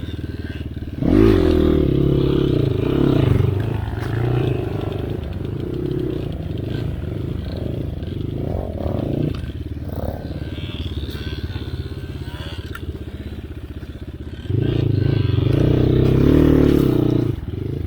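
Enduro dirt bike engine running under throttle. It jumps louder about a second in, runs lower through the middle with blips of throttle, then opens up again for about three seconds near the end.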